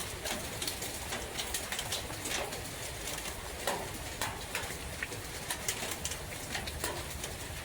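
Rain falling in a forest: a steady hiss with irregular drops tapping, and a low bird call every so often.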